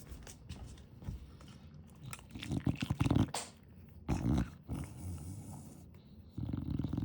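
An English bulldog snorting and snoring as it breathes, in rough, rattly bouts: two louder snorts about two and a half and four seconds in, then steady snoring breaths from about six and a half seconds in.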